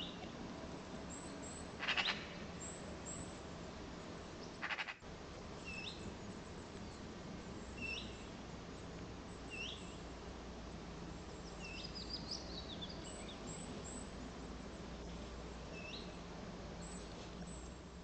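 Several wild birds calling: a small bird repeats a short rising chirp every second or two, two short harsh calls stand out in the first few seconds, and a brief twitter comes midway, over a steady low background hum.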